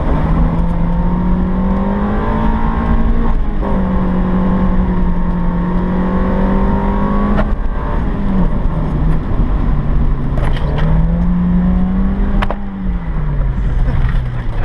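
1995 Mazda Miata's 1.8-litre inline-four engine revving hard as the car is driven sideways: the pitch climbs and holds high, then falls off, three times over, with short clicks at some of the drops.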